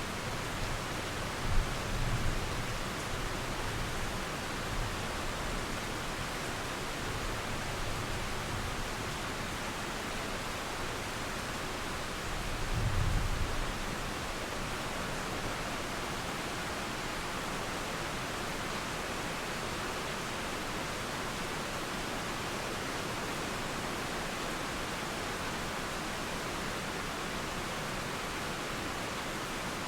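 Steady rain hiss through the trees with a continuous water wash underneath. Low rumbles of distant thunder roll in the first few seconds and swell briefly once more a little before the middle.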